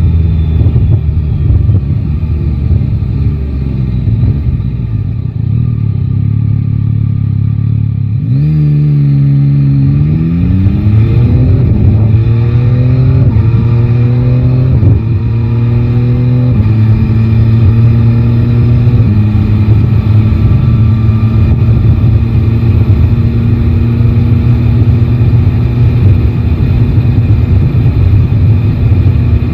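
Yamaha Tracer 9 GT's 890 cc inline-three engine running low and steady, then pulling away about eight seconds in. It rises in pitch and drops back at each of several quick upshifts, then settles to a steady cruise.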